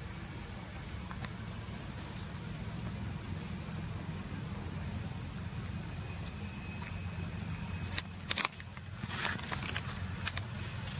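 Steady outdoor background: a low hum with a thin, steady high whine over it, and a few sharp clicks and knocks about eight to nine seconds in.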